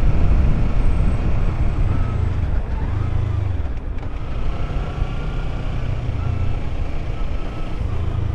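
Motorcycle engine running, with a heavy low rumble of wind on the microphone.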